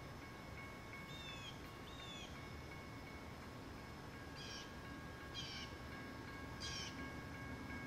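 Faint bird calls: two downward-slurred chirps about a second apart, then three short, sharp calls spaced a second or so apart, over a low background hum with faint steady high tones.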